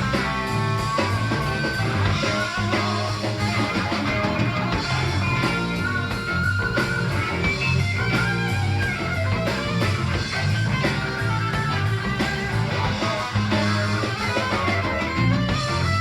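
Live rock band playing an instrumental: electric guitar lead lines over bass and drum kit, recorded on cassette in a club.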